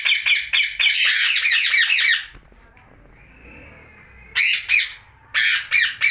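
Indian ringneck (rose-ringed) parakeet screeching in rapid runs of harsh, repeated calls, several a second, with a quieter pause of about two seconds in the middle.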